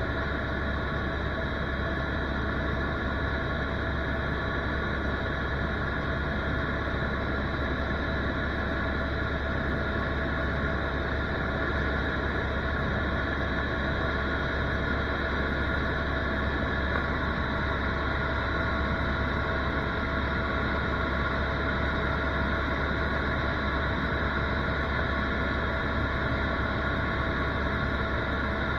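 Tour helicopter's engine and rotor running steadily in flight, a constant drone with several steady whining tones over it.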